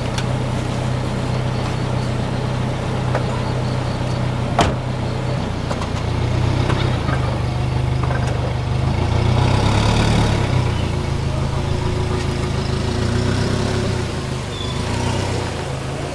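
Vehicle engine idling steadily, a low even hum, with one sharp click about four and a half seconds in.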